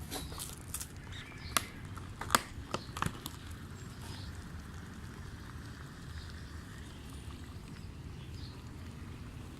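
The heating pack of a self-heating instant noodle cup bubbling as it reacts with water. A cluster of sharp pops and crackles in the first three seconds is followed by a faint steady simmer.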